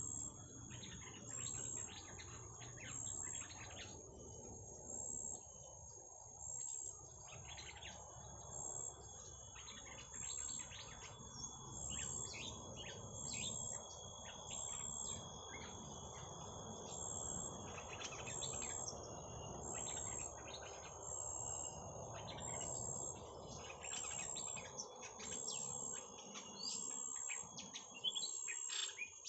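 Small birds chirping irregularly over a short, high call that repeats at an even pace of about once a second, as a lure call played to draw in and agitate petpet birds. A steady high insect-like whine runs underneath.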